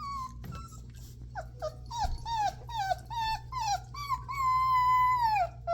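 A 25-day-old Alaskan malamute puppy crying: a quick string of short high cries, each falling in pitch, then one long held cry that sags in pitch at the end.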